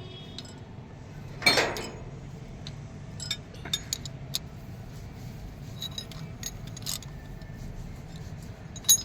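Metal tools and engine parts clinking and knocking against each other during hand work on an excavator engine, with a louder clatter about one and a half seconds in and scattered light clicks after it.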